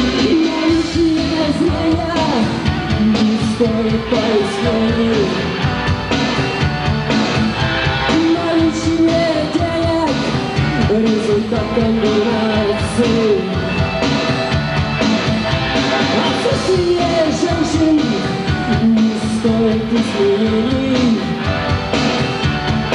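Live rock band playing a song: guitars and drums with a voice singing over them, recorded through the hall's sound system.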